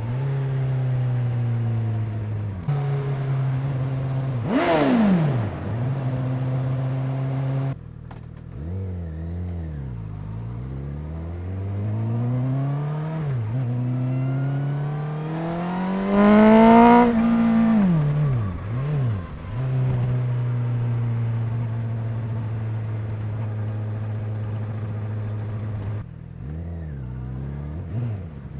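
2017 Honda CBR1000RR inline-four engine and exhaust under way. It holds steady, then gives a sharp rev about five seconds in. Past the middle it pulls hard to the loudest peak, drops off with quick throttle blips, runs steady again, and gives a couple of short revs near the end.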